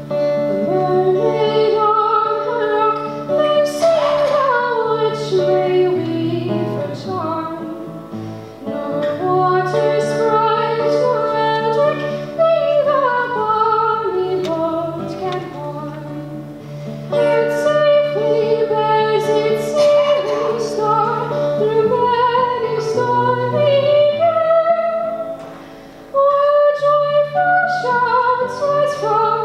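Chamber trio performing: a high melody with vibrato over sustained low notes. The music dips in level about 25 seconds in, then comes back in full.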